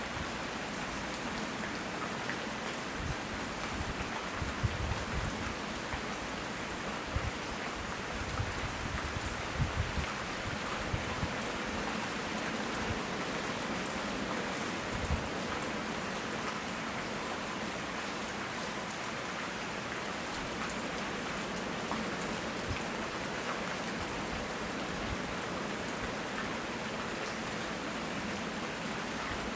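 Steady tropical rain falling, a continuous hiss, with scattered low thumps during the first half.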